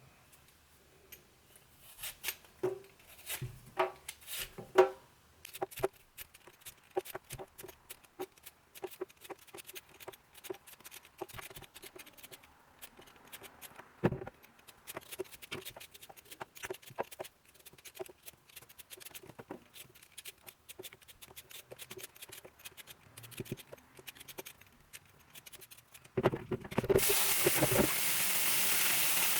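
Kitchen work: a long run of small clicks, taps and knocks from utensils and ingredients being handled, some with a short ringing note. Near the end a kitchen tap is turned on and water runs hard.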